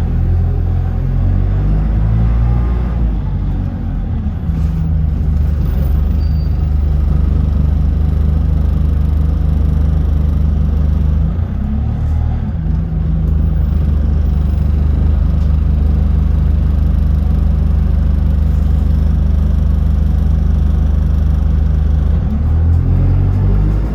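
Bus engine running under way with a steady low drone. Its pitch shifts in the first few seconds and again about twelve seconds in, then climbs near the end as the bus accelerates.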